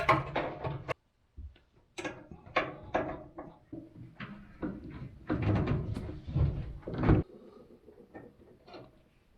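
Irregular clicks, knocks and rattles of metal parts and wiring connectors being worked loose from a gas dryer's gas valve and coil assembly. The handling is busiest in the middle and stops abruptly, leaving a few faint ticks.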